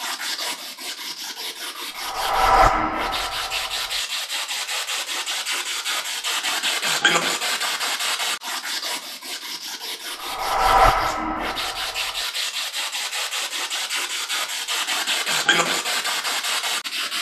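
Spirit box sweeping through radio stations: steady static chopped by rapid even clicks, swelling louder twice with brief fragments of radio sound.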